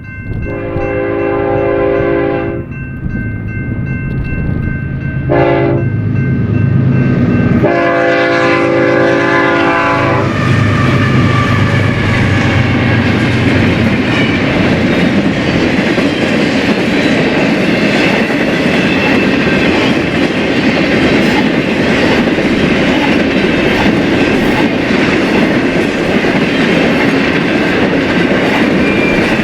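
Diesel freight locomotive sounding its horn in a long blast, a short one and a long one, with the engine's low drone underneath. Then the train passes close by, with a steady loud rumble and clatter of wheels on the rails.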